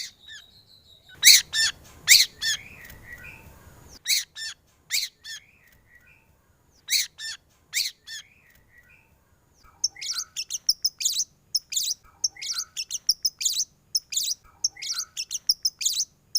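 White-rumped shama singing: separate loud, sharp whistled notes, then a fast run of short notes from about ten seconds in.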